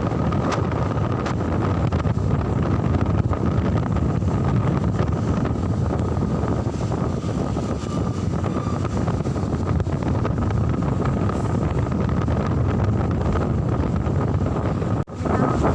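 Wind buffeting the microphone over the steady running noise of a moving vehicle, with a faint steady whine; the sound drops out briefly near the end.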